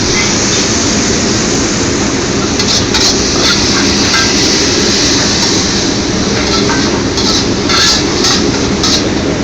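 Stir-frying in a wok over a high-powered gas wok burner: a steady roar from the burner and sizzling, with a few sharp metallic clinks of the ladle on the wok.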